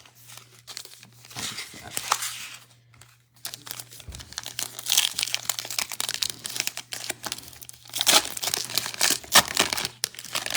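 A trading-card pack's foil wrapper being torn open and crinkled, in several stretches of crackling.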